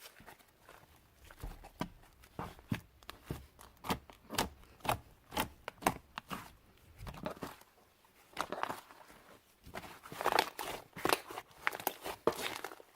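Hands squeezing and stretching clay-mixed slime, giving a run of irregular sticky pops and crackles that grow denser and louder in the last few seconds.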